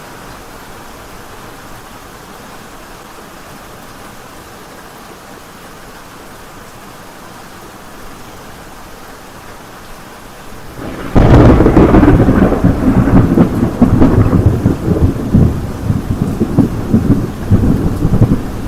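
Steady rain falling, then about eleven seconds in a sudden loud clap of thunder that rolls on as heavy, irregular rumbling.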